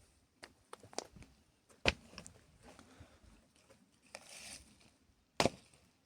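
A handful of sharp knocks, the two loudest about three and a half seconds apart, with a short rustling scrape shortly before the second.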